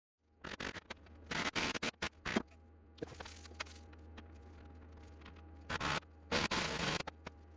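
Wood lathe running with a steady low motor hum after its headstock bearings were replaced, while a turning tool scrapes against the wood in short, irregular bursts.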